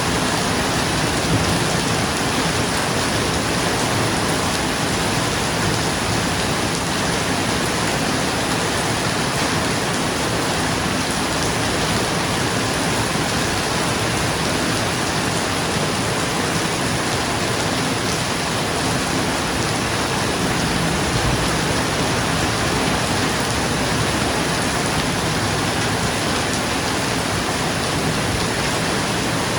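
Steady rain falling on a roof: a dense, even hiss that holds without a break.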